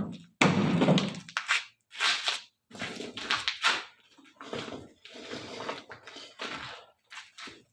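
Irregular crunching and knocking of construction debris being handled, in short bursts of a second or less with brief gaps between them.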